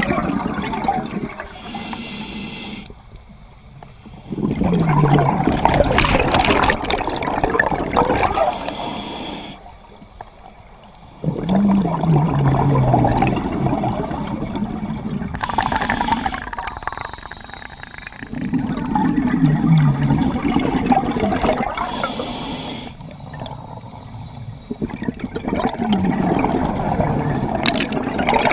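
Scuba diver breathing through a regulator underwater: a rush of bubbling exhaust comes with each breath, repeating about every seven seconds.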